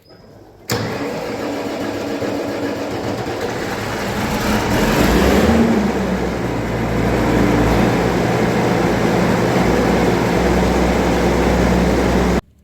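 Diesel tractor engine running steadily. It comes in suddenly under a second in, swells a little a few seconds later, then stops abruptly near the end.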